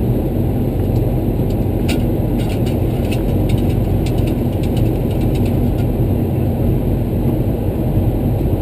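Steady rumble inside a Boeing 737-300 cockpit from its engines, with a run of light clicks from about two to six seconds in.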